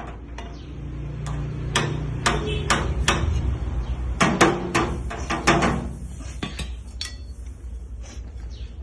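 Body hammer tapping on a sheet-metal panel in irregular strikes, a dozen or more, coming fastest near the middle, over a steady low hum.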